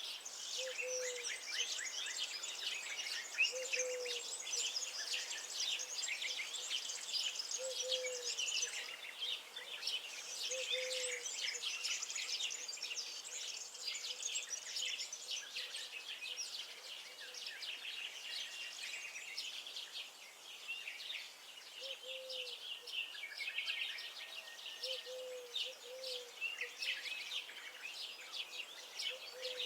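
Many small birds chirping and singing at once in a dense, unbroken chorus, with a short low hooting note repeating every few seconds beneath it.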